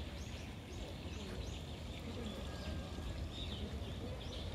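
Small birds chirping: many short, high chirps repeating over a steady low rumble of outdoor background noise.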